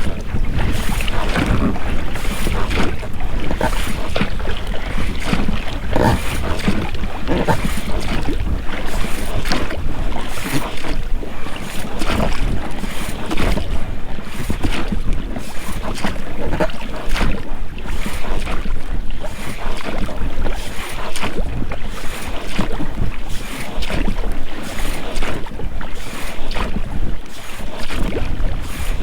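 Oars splashing and dipping in the water as an inflatable boat is rowed, with the rubber rowlocks working with each stroke. Wind buffets the microphone throughout.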